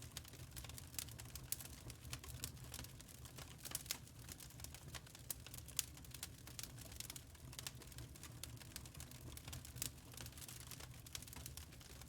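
Fireplace fire crackling: irregular small snaps and pops over a low steady rumble.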